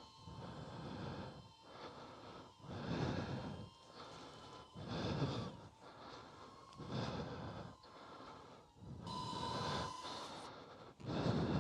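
A person breathing heavily close to the microphone, in and out at a steady rhythm of about one puff a second, over a faint steady thin whine.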